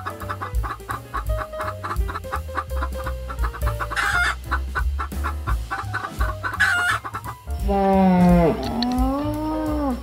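Chickens clucking in short repeated calls, followed near the end by one long drawn-out call that falls and then rises in pitch. Background music with a low beat runs underneath.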